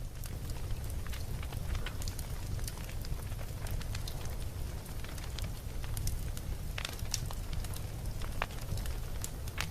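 Campfire burning, with a steady low rumble of flames and many irregular sharp crackles and pops of burning wood.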